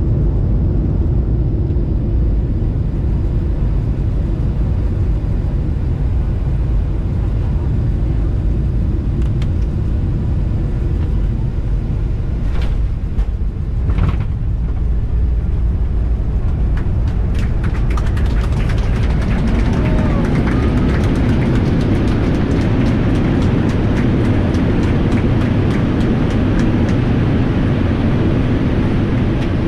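Boeing 737-800 cabin noise on landing: a steady low drone, two thumps about 12 and 14 seconds in, then from about 18 seconds a louder rushing roar with rattling as the jet touches down and rolls out.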